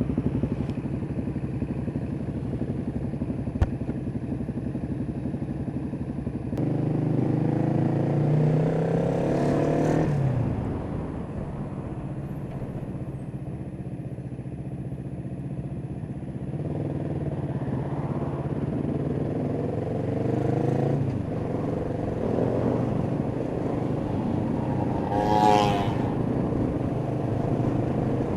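Kawasaki EN500 Vulcan's parallel-twin engine running while riding, its pitch rising as it accelerates about seven seconds in, dropping at about ten seconds, then rising again between about 17 and 21 seconds. A short higher-pitched sound stands out near the end.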